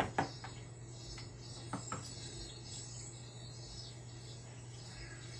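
Birds chirping and insects trilling from a nature video playing through a television's speaker, over a steady low hum, with a few sharp taps near the start and again about two seconds in.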